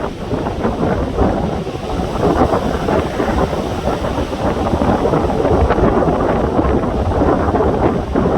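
Strong wind buffeting the microphone in a storm at sea: a loud, unbroken rushing rumble that grows a little louder about two seconds in.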